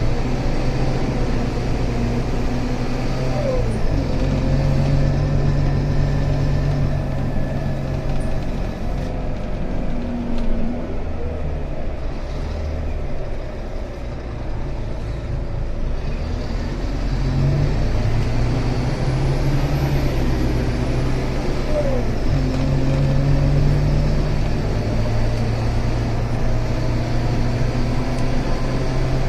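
Scania K280 bus engine running under way, its pitch climbing and then dropping several times as it changes gear, over steady road noise.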